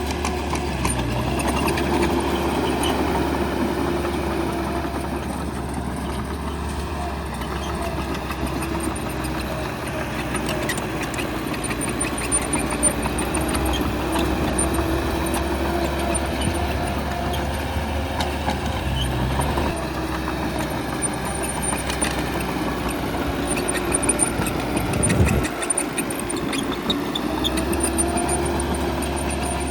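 Bulldozer's heavy diesel engine running steadily at work, its pitch rising and falling with the load, with a short sharp drop in pitch near the end.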